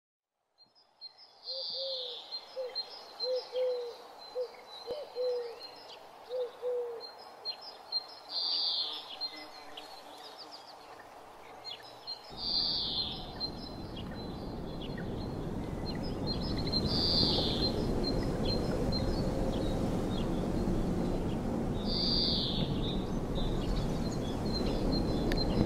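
Birds calling: a run of short low calls over the first few seconds, and a higher chirping call that comes back every five seconds or so. From about halfway through, a steady rushing noise swells gradually under the calls.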